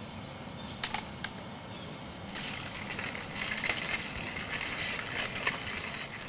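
A child's bicycle rolling along, its wheels and frame rattling with a crunching, crackling noise; a couple of clicks about a second in, then the rattle grows louder about two seconds in and carries on until near the end.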